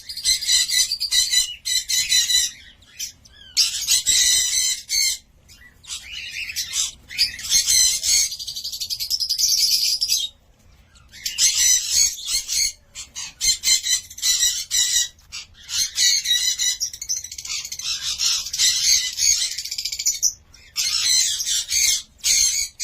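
Cockatiel chattering and calling in quick runs of high chirps, broken by short pauses, with a smoother, more even whistled stretch about eight to ten seconds in.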